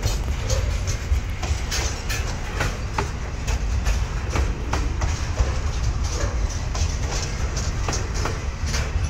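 Freight train rolling past, its wheels clicking sharply and often over rail joints above a steady low rumble.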